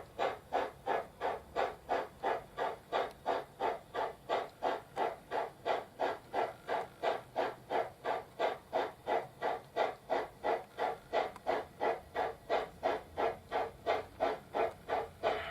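Trix model Big Boy steam locomotive's ESU LokSound sound decoder playing steam exhaust chuffs through its small loudspeaker. The chuffs come in a steady rhythm of about two and a half a second.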